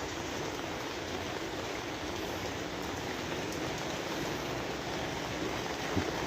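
Steady rain falling, an even hiss of many drops with a single faint knock near the end.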